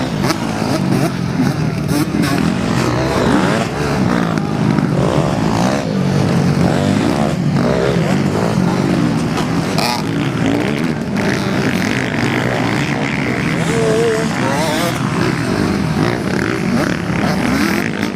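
Several motocross bikes racing, their engines revving up and down in overlapping rising and falling whines.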